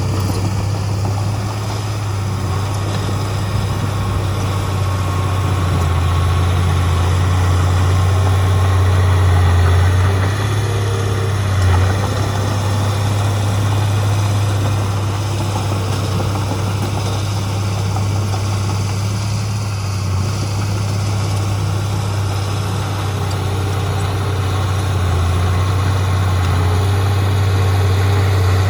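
Heavy diesel engine of earthmoving machinery running steadily with a deep, continuous drone, swelling slightly about ten seconds in and again near the end.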